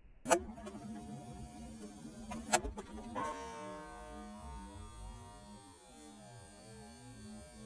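Two sharp rifle shots about two seconds apart over a steady electric-motor hum, then music with a melody comes in about three seconds in.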